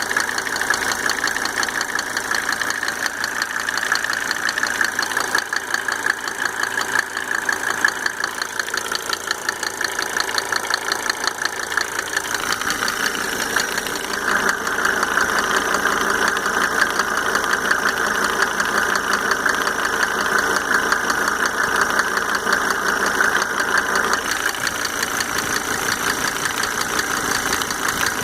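Mercedes W124 2.5-litre five-cylinder diesel engine idling with a fast, steady tick that the owner cannot trace after fitting five rebuilt injectors with Monark nozzles. About halfway through it becomes a little louder for some ten seconds, then settles back.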